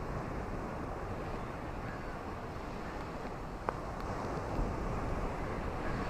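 Ocean waves washing onto a shore, with a steady rush of surf and low wind rumble, swelling a little louder in the second half. A single sharp click a little past halfway.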